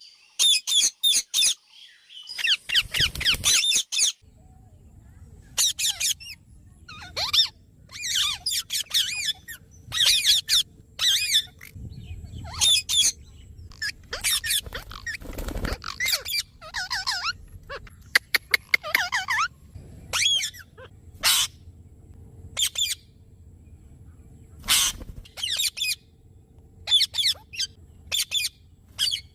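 Parrot calling over and over in short, harsh, high-pitched squawks, with pauses of a second or two between groups of calls.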